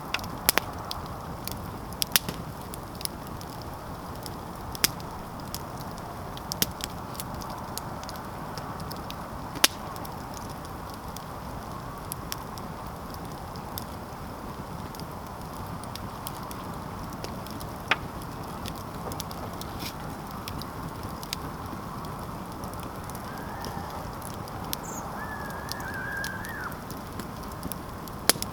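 Campfire crackling: irregular sharp pops and snaps over a steady rushing background. A short, wavering, whistle-like call sounds briefly near the end.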